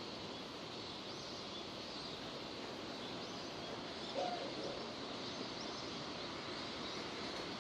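Steady rain falling, with faint bird chirps over it and a brief, slightly louder sound about four seconds in.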